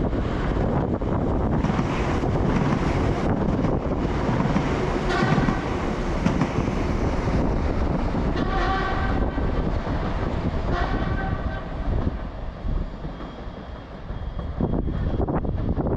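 Train passing close by on the line, with a steady rumble of wheels on rail. Its horn sounds three times, at about 5, 8.5 and 11 seconds in.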